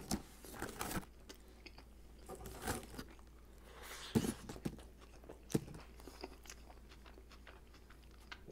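A person chewing a mouthful of toasted sub sandwich with lettuce: wet chewing with irregular crunches, the sharpest about four and five and a half seconds in.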